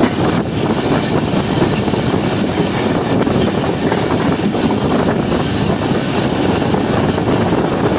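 Pakistan Railways passenger train running along the track, heard close beside its coaches: a loud, steady noise of wheels on rails.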